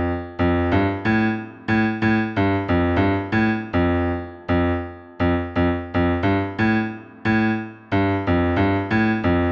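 A well-known children's tune played note by note in the low (bass) register on a piano-sounding keyboard, each note struck and fading before the next, as an example of low-pitched sounds.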